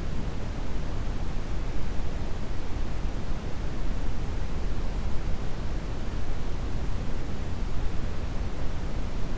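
Steady brown noise: an even, deep rushing hiss weighted toward the low end, with no change or events.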